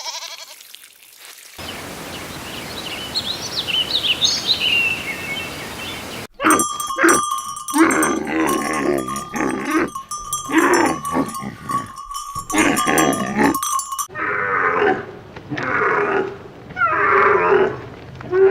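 Farm animals calling in a run of short clips, ending with a series of separate calls about a second apart. A steady ringing tone runs under the middle stretch.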